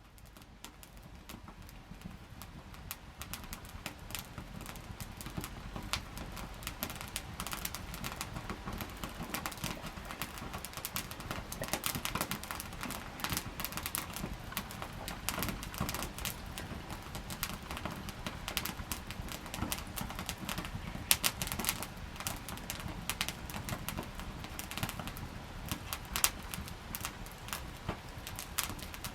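Wood campfire crackling and popping with many irregular snaps, growing louder over the first several seconds and then staying busy.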